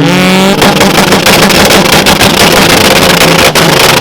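Car engine revved hard and held on a two-step launch limiter. The revs climb and settle in the first half-second, then hang at a steady pitch, with rapid crackling and popping from the exhaust as the limiter cuts spark. There is a brief break about three and a half seconds in.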